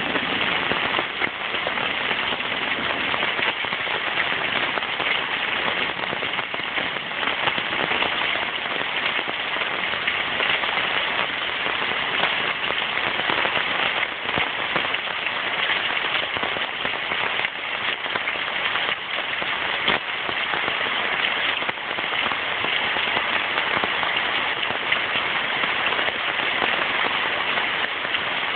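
Heavy rain pouring in a steady downpour, with an occasional sharper tap among the hiss.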